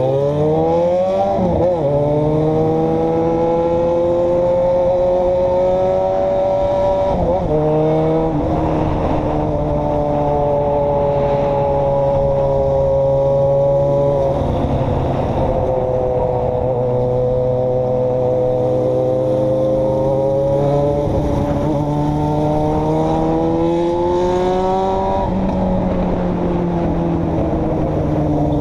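A road vehicle's engine running under way: it revs up quickly at the start, then holds a fairly steady pitch with slow rises and falls. The pitch dips briefly a few times, like gear changes, and climbs again before dropping near the end.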